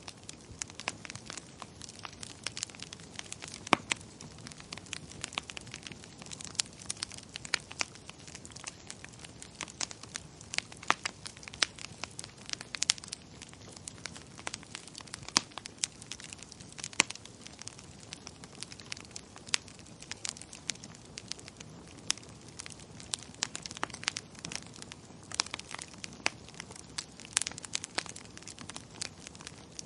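Wood fire crackling in a fireplace: a soft steady hiss with many sharp, irregular pops and snaps.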